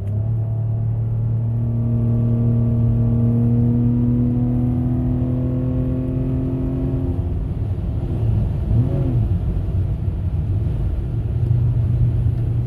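Dodge Journey engine, just remotely tuned, running under load while driving: a steady engine note that climbs slowly in pitch for about seven seconds, then drops away into a rougher road rumble with a short rise and fall, and the engine tone comes back near the end.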